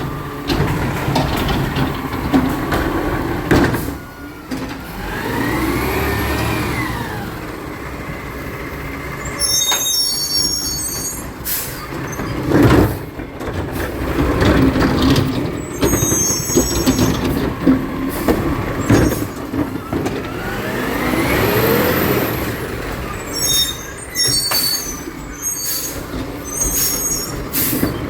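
Recycling truck working: its engine rises and falls in pitch twice as it is revved, with clusters of sharp high squeals, hisses and knocks in between.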